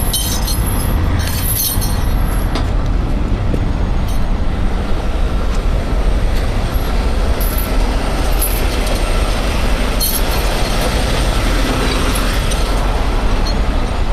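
Heavy tow truck's diesel engine running steadily with a loud low rumble, with a few brief high metallic clinks near the start and about ten seconds in.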